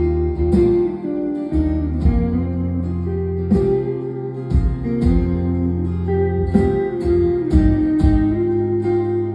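Live rock band playing an instrumental passage: guitars over sustained bass notes, with a drum hit about once a second.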